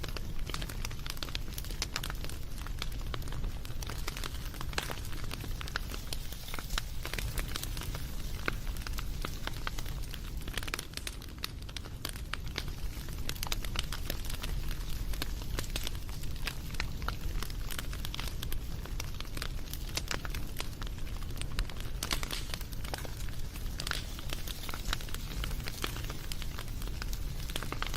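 Wood fire crackling steadily, with dense, irregular snaps and pops over a low rumble of flame.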